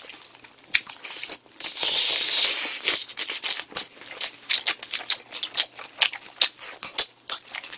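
A person chewing sauced chicken close to the microphone: a run of short, wet mouth clicks and smacks, with a louder hissing noise lasting about a second and a half, about two seconds in.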